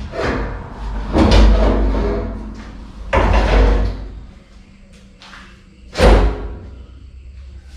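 Fuel tank being handled into place on a truck frame: a series of loud clunks and bangs, four main ones, the last and sharpest about six seconds in.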